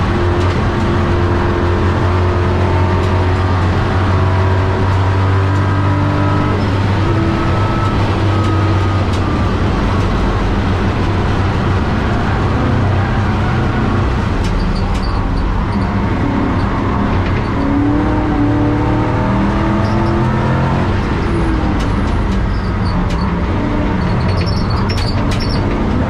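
Race car engine under load at speed, heard from inside a stripped, caged cabin over road and wind noise. Its pitch holds fairly steady for the first half, then rises and falls with throttle and gear changes in the second half.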